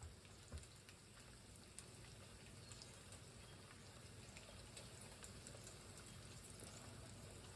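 Near silence: faint kitchen room tone with a couple of soft ticks near the start.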